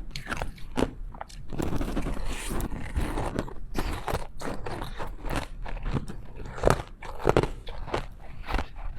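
Close-up biting and crunching of ice, with chewing in between: a run of irregular cracks and crunches, two of them loudest near the end.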